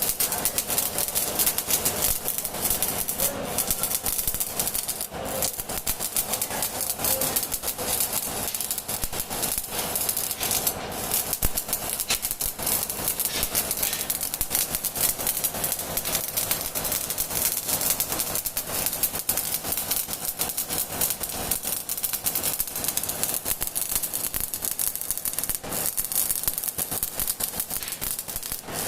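Electric arc welding crackling steadily: a dense, continuous sputter of tiny clicks.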